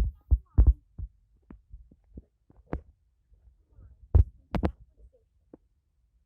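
Toy trains being handled and moved along the track: scattered low thumps and sharp clicks, with the loudest knocks about half a second in and again just after four seconds.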